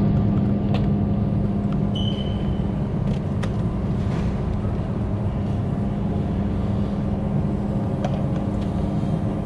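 Paint spray booth machinery running: a steady drone with a low hum, with a few faint ticks and a brief high tone about two seconds in.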